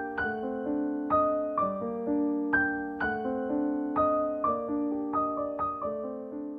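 Piano-like keyboard music: a gentle repeating figure of struck notes, each ringing and dying away, getting quieter near the end.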